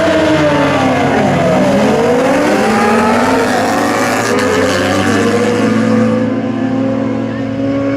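A pack of superbike racing motorcycles running at high revs, several engine notes sliding down and up against each other as they accelerate and pass. The sound thins and drops a little after about six seconds.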